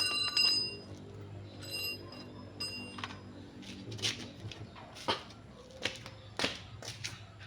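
Metal clinking: a short ringing clink about two seconds in, then a string of sharp separate taps, roughly one a second, over a steady low hum.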